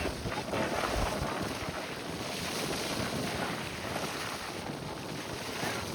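Strong wind buffeting the microphone over a steady rush of water, with low gusts near the start and about a second in.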